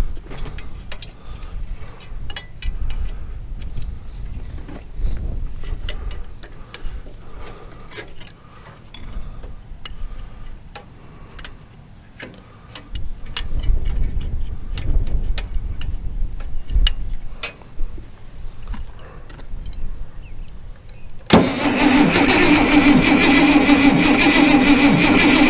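Scattered light clicks over a low rumble, then, about 21 seconds in, the burnt International Harvester 1086's diesel engine is cranked on the starter with a loud, steady whine. It turns over without firing, cranked with the injector lines cracked open to push fuel up to the injectors.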